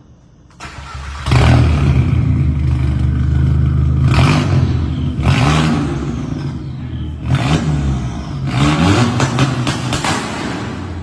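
Tuned 2001 VW GTI's turbocharged 1.8-litre four-cylinder revving hard several times, its pitch climbing and dropping, with loud rushing bursts between the revs. It comes in about half a second in after a near-quiet start.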